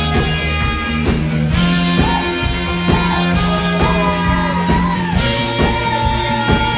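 Live pop-rock band playing an instrumental passage between sung lines: drum kit and bass under a lead melody that slides up and down in pitch.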